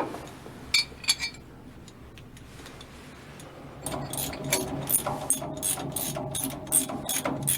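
A few light metal clinks, then from about halfway through a ratchet wrench clicking quickly and steadily, about four clicks a second, as it is worked back and forth snugging up the bolts of a propeller shaft coupling.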